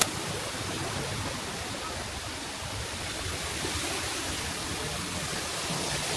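Düden Waterfall's water falling with a steady, even rushing noise.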